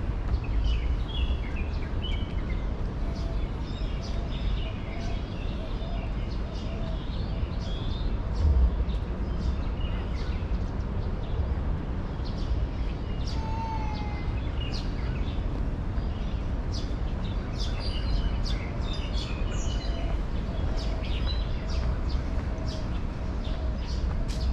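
Birds chirping and calling in short, scattered bursts throughout, over a steady low rumble.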